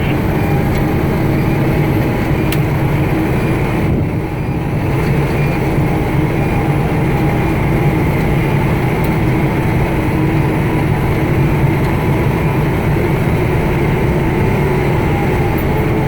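Steady drone of a 2010 Pierce Arrow XT fire engine's diesel engine and road noise, heard from inside the cab while it drives.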